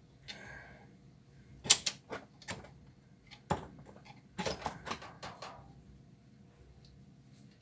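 Sharp clinks and knocks of tools and metal parts being handled while a washing machine is taken apart, several separate strikes with a quick cluster of them a little past the middle.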